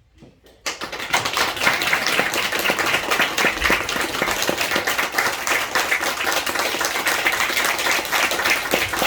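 Audience applause that breaks out suddenly just under a second in and keeps up steadily.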